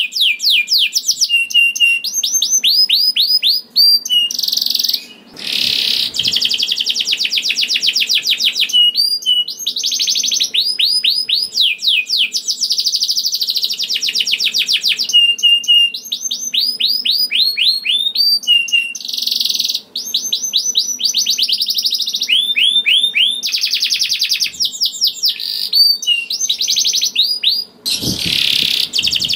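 Domestic canary singing a long, continuous song of fast trills and rolls, built from rapid runs of repeated falling notes with only brief pauses: the loud, long-rolling song that keepers play to make other canaries sing.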